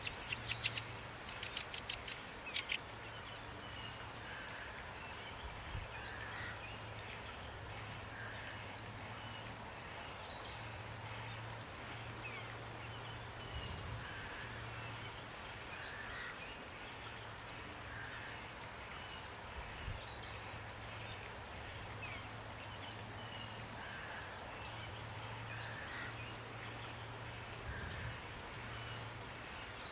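Steady rain with songbirds calling: repeated high chirps and short falling whistles throughout, and a quick rattling trill in the first few seconds. A low hum comes and goes underneath.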